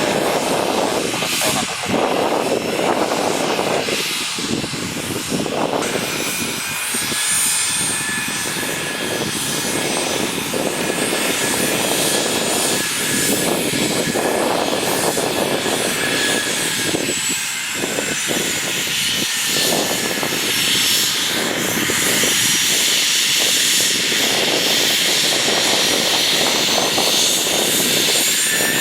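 Cessna 510 Citation Mustang's twin turbofan jet engines running at low power, a steady high whine over a rushing noise that rises and falls.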